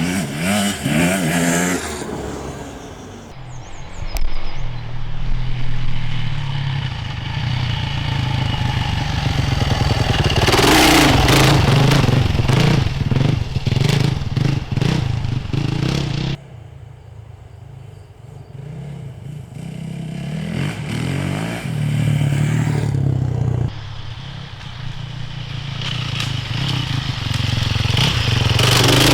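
Enduro motorcycle engines revving as several bikes ride by on an off-road track, the sound swelling as each one approaches and passes. It drops off suddenly a little over halfway through, then builds again as more bikes come up.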